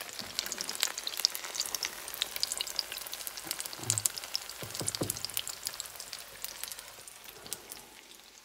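Chicken shami kabab patties shallow-frying in oil in a frying pan, sizzling with a dense spatter of crackles and pops that thins out near the end.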